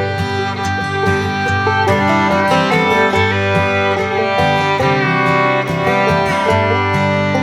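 Background music: an upbeat instrumental with fiddle and guitar in a bluegrass style, with some sliding fiddle notes.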